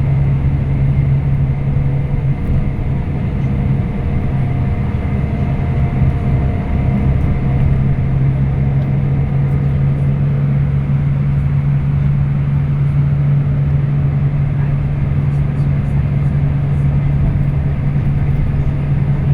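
Scania K340IB coach's diesel engine droning steadily at an even pitch, heard from on board with road rumble.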